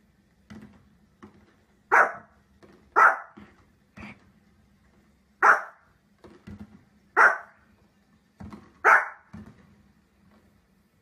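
A dog barking: five loud, sharp barks spaced irregularly about one to two seconds apart, with fainter short sounds in between.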